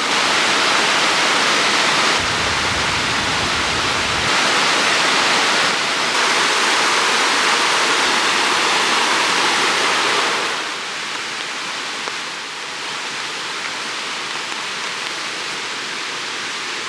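Steady rush of flowing river water. The sound is loud and even, and drops somewhat in level about two-thirds of the way through.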